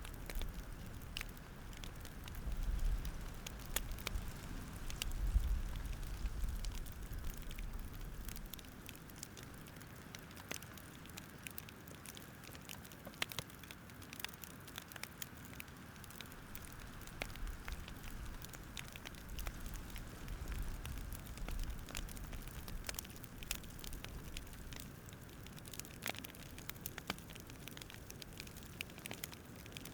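Campfire crackling, with irregular sharp pops and snaps over a soft steady hiss. A low rumble sits under it for the first eight seconds or so, then fades.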